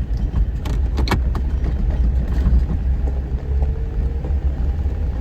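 Off-road vehicle driving along a dirt mountain trail: a steady low engine and road rumble, with a few short knocks and rattles about a second in.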